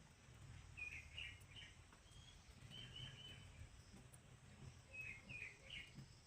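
Faint bird chirps: a few quick high chirps about a second in, a short run near three seconds, and another group about five seconds in, over a low steady hum.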